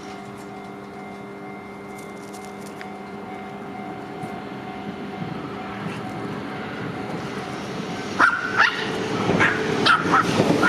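Level-crossing warning alarm ringing steadily as an electric train approaches, the train's rumble growing louder. About eight seconds in, loud sharp clatter and a brief high squeal as the train reaches the crossing.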